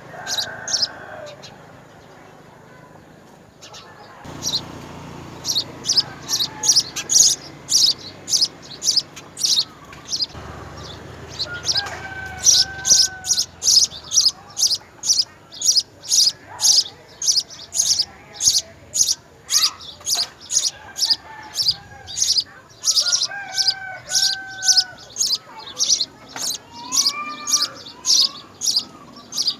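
A small bird chirps over and over, a short high chirp about twice a second, starting about four seconds in. Lower, sliding whistled calls from other birds come in now and then.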